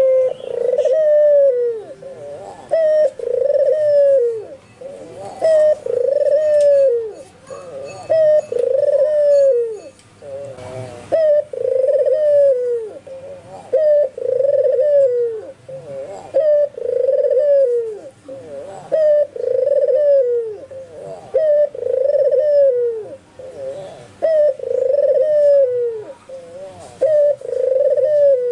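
White (albino) Barbary dove, the Indonesian puter putih, cooing over and over: a drawn-out coo about every two seconds, each one rising and then falling in pitch.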